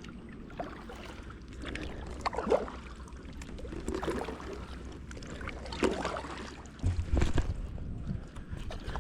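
Kayak paddle strokes dipping and splashing in calm water, a stroke every second or two, with a low rumble and knocks near the end.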